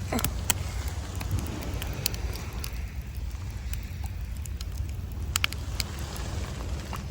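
Wood campfire crackling with scattered sharp pops, over the steady low rumble of waves breaking on the beach.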